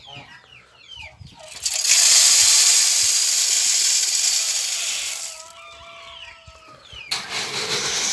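Poultry calling at a feeder: short falling chirps, then a few held calls near the middle, broken up by stretches of loud steady hiss.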